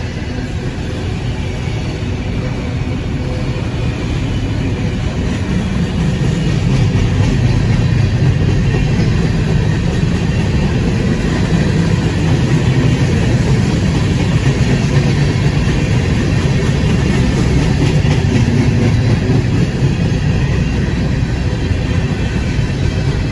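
Freight train rolling past, a steady low rumble with hiss that builds over the first several seconds and then holds.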